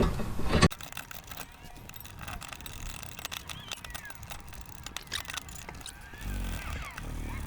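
A brief loud clatter of metal tools, then faint metal clicks and scrapes of a caliper bolt being threaded in by hand. A low rumble comes in near the end.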